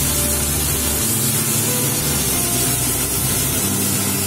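Well-fried masala paste sizzling in oil in a pan as it is stirred, a steady hiss. The masala is at the stage where it is well cooked and the oil has separated.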